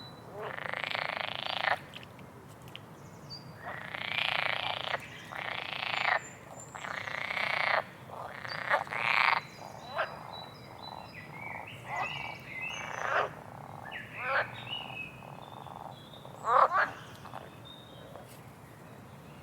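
Frogs calling in a chorus: a run of loud croaking bouts, each lasting about a half to one second, with short gaps between them. Faint bird chirps are heard over the top.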